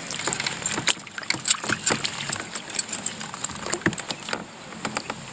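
A freshly netted kokanee flopping in a landing net aboard a small boat while it is handled: a rapid, irregular run of clicks, taps and light knocks.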